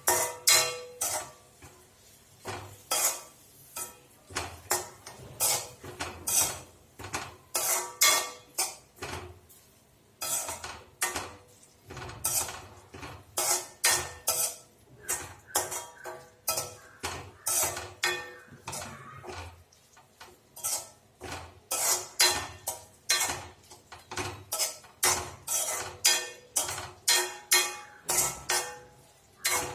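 A utensil scraping and knocking against a cooking pan as okra fry is stirred, in quick repeated strokes about one to two a second.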